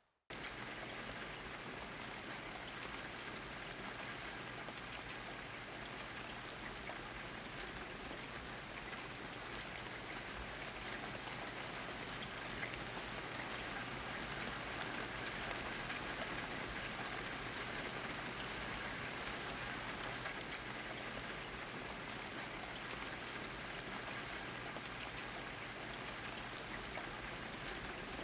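Steady rain falling, with many separate drops heard through a dense even hiss; it starts abruptly right at the beginning and holds steady.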